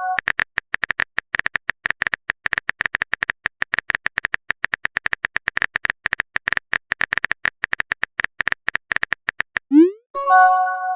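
Rapid, continuous phone-keyboard typing clicks from a texting sound effect. Near the end comes a quick rising pop and a short chime of several steady tones: a message-sent notification sound.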